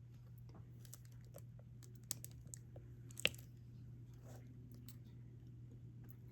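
Small scattered clicks and taps of diamond painting drills being picked up with a drill pen and pressed onto the adhesive canvas, with one sharper click about three seconds in.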